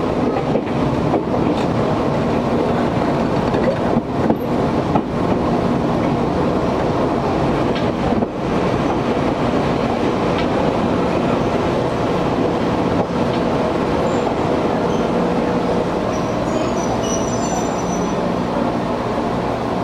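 Interior running sound of an Izuhakone Railway 1300 series electric train: steady wheel-and-rail noise with scattered sharp knocks and clanks, over the strong air-conditioning running in the car. The gangway plates between cars clank loudly as it runs.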